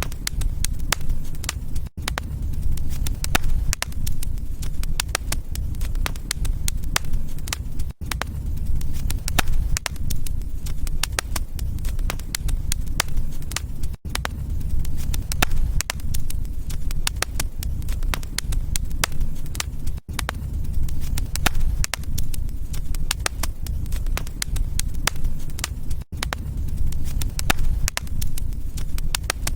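Wood fire crackling, with many sharp pops and clicks over a steady low rumble of flames. Very brief dropouts about every six seconds, the joins of a short looped recording.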